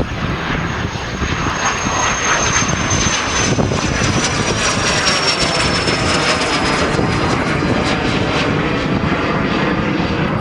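Jet aircraft passing close by, a loud steady engine rush with a high whine that slowly falls in pitch as it goes past.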